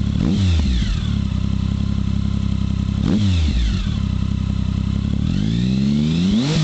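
Triumph Speed Triple 1050's inline three-cylinder engine idling through Arrow slip-on exhausts with the baffles removed. It is blipped quickly twice, near the start and about three seconds in, then revved for longer, rising and falling near the end. The open slip-ons give a deeper, sweeter exhaust note.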